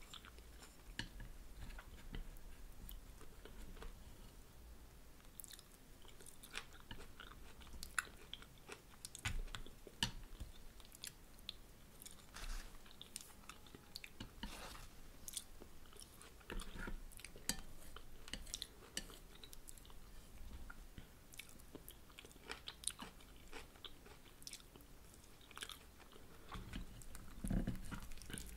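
Close-miked chewing and soft mouth sounds from eating a chicken and vegetable spring roll. Scattered small clicks and crackles come throughout, as chopsticks pick apart the filling on a plate.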